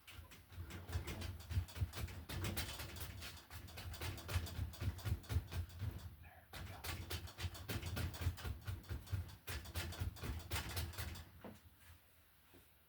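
Stiff bristle brush worked rapidly back and forth through oil paint, a fast scratchy scrubbing in two spells, with a brief pause about six seconds in and stopping about eleven seconds in.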